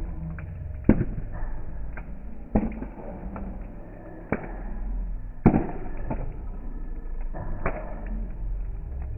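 Wood fire crackling, with frequent small ticks and several sharp pops, the loudest about halfway through, over a low rumble.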